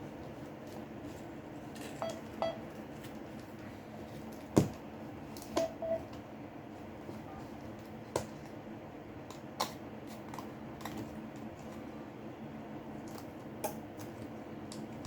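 Scattered small clicks and light taps of hand tools on a smartphone being pried open, the sharpest about halfway in, over a steady low hum.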